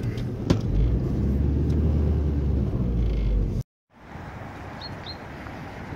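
Car engine idling, heard from inside the cabin as a steady low hum, with a single click about half a second in. It cuts off abruptly after about three and a half seconds and gives way to quieter outdoor air noise with two short high chirps.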